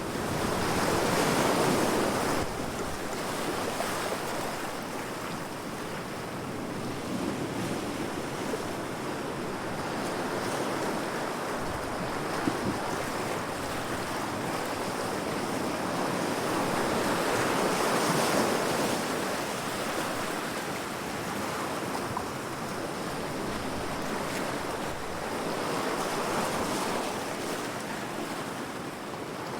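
Heavy ocean waves crashing against rocks: a continuous wash of surf that swells and fades, with three louder surges.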